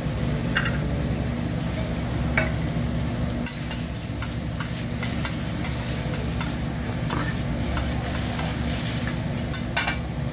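Food sizzling and frying on a hibachi griddle while it is stirred and turned, with scattered sharp clicks over a steady low hum.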